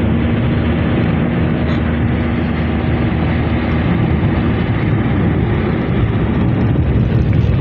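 Steady low rumble and hiss of a car driving on the road, engine and tyre noise, which cuts off suddenly near the end.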